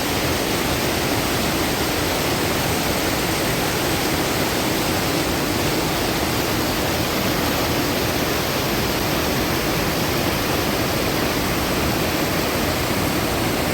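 Steady rushing water, an unbroken even hiss with no changes.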